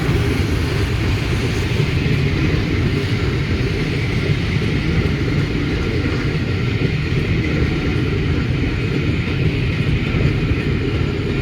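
A train running with a steady, even rumble and no distinct beats.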